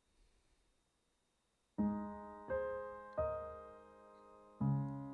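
Piano introduction: near silence, then about two seconds in, four chords are struck one after another, each left to ring and fade, with a short pause before the last one.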